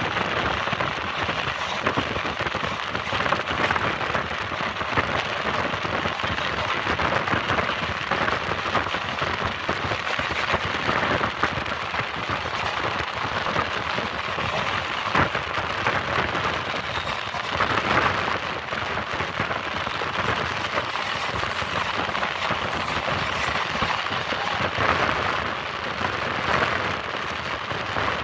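Running noise of a train at speed heard from on board: wheels rattling over the rails in a dense, steady patter, mixed with rushing air.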